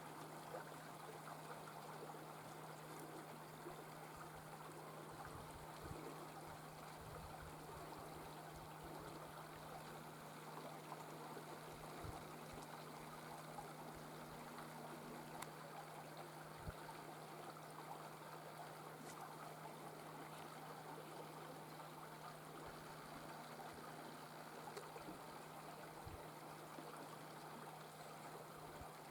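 Faint, steady sound of running water, like a small stream, with a low steady hum underneath.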